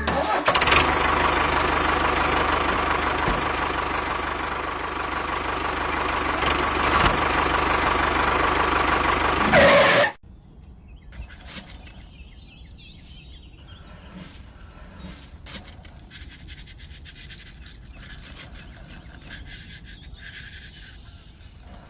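Small electric motor of a DIY toy tractor running with a loud, steady whir, cutting off abruptly about ten seconds in. After that come quieter scattered clicks and scraping.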